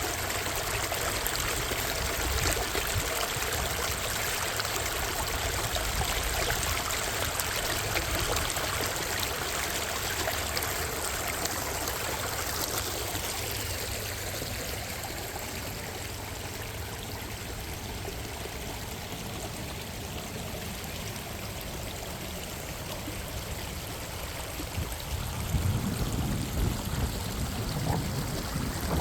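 Steady running water of Minnehaha Creek, a rushing, trickling stream sound that softens a little about halfway through. Some low rumbles come in near the end.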